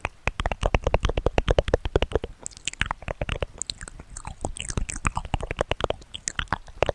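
Close-miked ASMR trigger sound: a fast, irregular run of crisp clicks and taps, many a second, right at the microphone.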